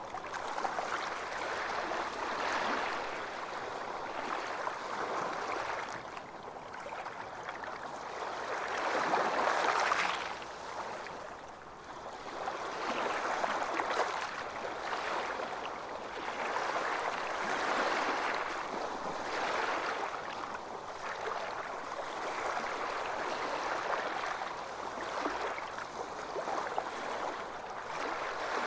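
Ocean waves breaking and washing on a beach, swelling and ebbing every few seconds, with one larger wave about a third of the way in.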